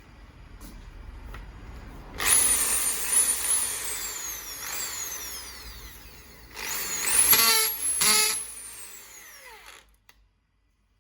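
Bosch GSB 13 RE corded hammer drill, a unit that is stuck in impact mode, run in two bursts. Its motor whine jumps up about two seconds in and wavers as the trigger is worked. A second, rougher burst comes about halfway through, and then the motor winds down to a stop with a falling whine.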